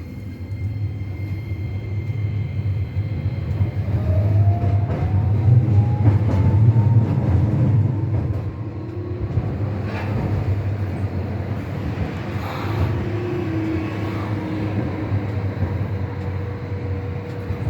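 Tram heard from inside the car as it moves off: a low rumble grows louder while the traction motor gives a steadily rising whine over several seconds as the tram gathers speed, then it runs on at a steady pace with a single sharp click about ten seconds in.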